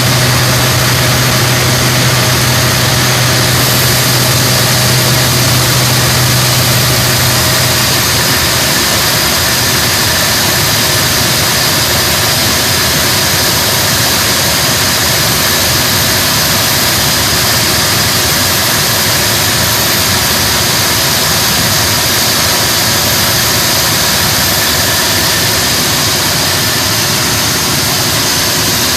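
An engine running steadily on a test with a loud, even noise. A low hum under it fades out about eight seconds in.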